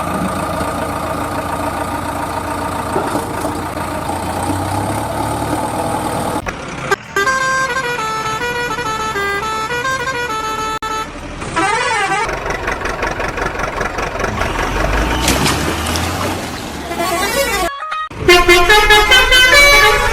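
A string of electronic horn and tune sound effects: a held horn-like chord for about six seconds, then a stepping melody, a short warbling siren-like glide, and a louder, rhythmic jingle near the end.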